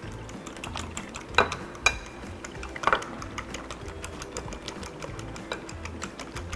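Rapid, even clicking from kitchen utensils being worked while seasoning an egg mixture, with a few louder clinks about one and a half, two and three seconds in.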